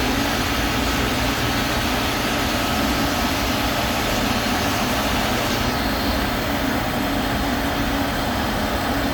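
Yanmar 6EY18ALW six-cylinder marine diesel engine running steadily under test, a loud, even drone with a faint high whine over the first half.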